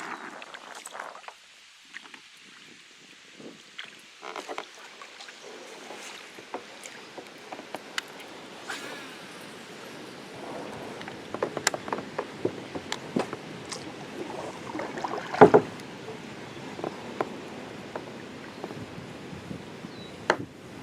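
Scattered clicks and knocks from fishing gear being handled on a kayak, over a steady wind hiss. The knocks come thicker in the second half, with one sharp, loud knock about fifteen seconds in.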